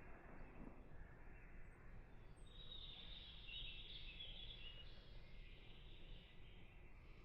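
Near silence: faint outdoor background noise, with faint bird chirping from about two and a half seconds in.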